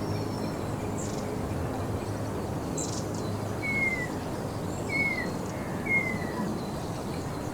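Night nature ambience: a bird gives three short, falling whistles about a second apart over a steady background hiss, with a few brief, very high chirps scattered through.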